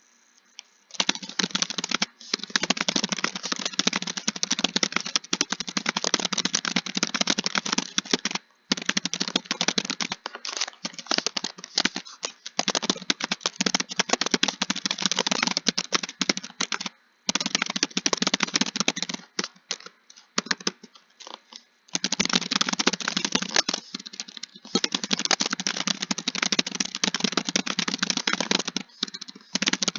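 Fast typing on a computer keyboard: dense runs of key clicks starting about a second in, broken by several short pauses.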